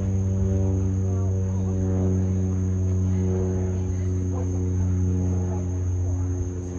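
Cessna 208B Grand Caravan's Pratt & Whitney PT6A turboprop running at steady power: a deep, even propeller hum with a thin, steady high whine above it.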